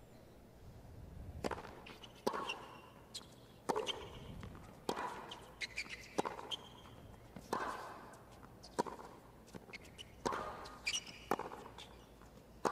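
Tennis rally: sharp racket-on-ball hits about every second and a half, many followed by a short grunt from the player.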